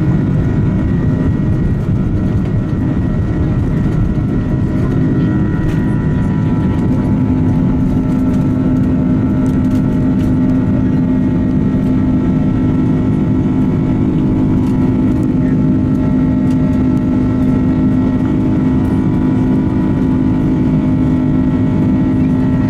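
Jet airliner cabin noise: the steady hum and rush of the engines and airflow, with a strong low drone and a few fainter, higher steady whining tones.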